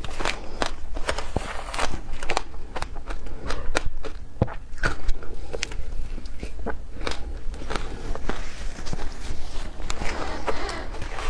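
Frozen matcha ice being bitten and chewed, crunching with many sharp, irregular cracks.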